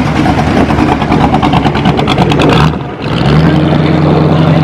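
Ford Mustang's 600 bhp V8 running loud: a pulsing, uneven exhaust note for the first two and a half seconds, a brief dip, then a steady held engine note.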